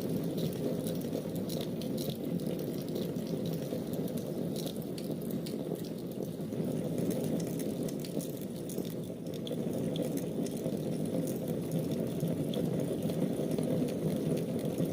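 Fire burning in a fireplace: a steady low rush of flame with scattered small crackles and pops.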